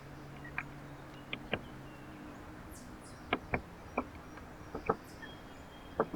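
Irregular sharp taps and knocks at a backyard bird feeder, from birds pecking at seed and landing on the feeder, coming faster around the middle and again near the end. A few faint high chirps come about halfway through.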